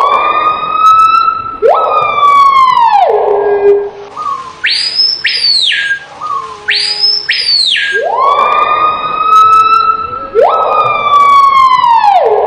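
Loud siren-like wailing: slow gliding tones that rise, hold and then fall away, with two shorter, higher-pitched sweeps in the middle. The sequence then repeats.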